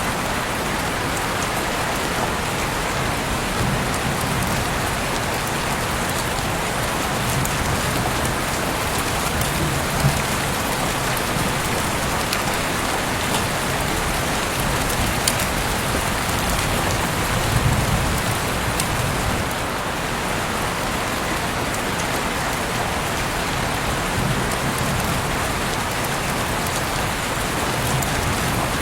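Heavy rain falling steadily, with a few sharper drops striking close by.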